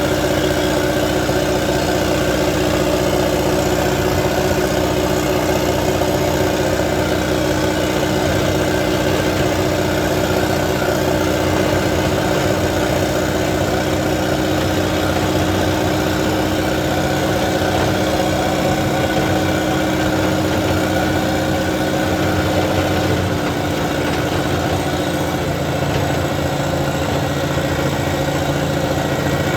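Engine idling steadily close by, its tone shifting slightly and easing off a little about three-quarters of the way through.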